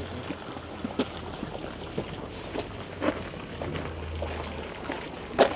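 Outdoor city ambience: a steady low hum under faint distant voices, broken by a few sharp clicks or knocks at uneven intervals, the loudest one near the end.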